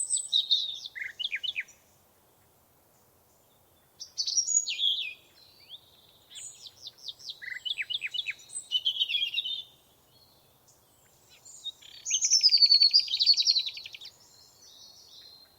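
A songbird singing in separate phrases of quick high whistled notes and slurs, with short pauses between them; the last phrase ends in a fast buzzy trill.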